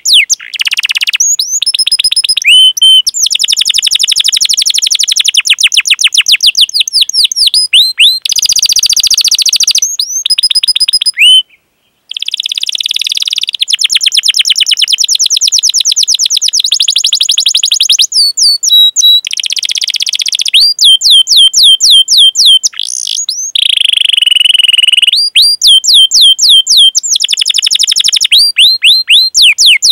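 Canary singing long, fast rolling phrases of rapidly repeated, sweeping chirps, the 'cuit cuit' calls of a canary in full song. It is loud throughout, with a brief break about a third of the way in.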